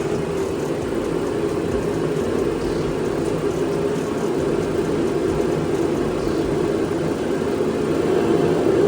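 Propane gas heater running steadily, its fan and burner blowing.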